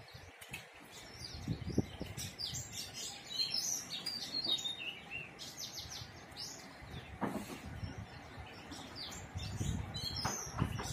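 Small birds chirping: many short, high calls in quick succession, thickest in the first half and again near the end. A low rumble builds up near the end.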